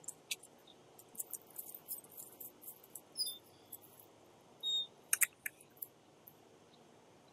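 Small birds give short, high chirps now and then, with scattered faint clicks between them.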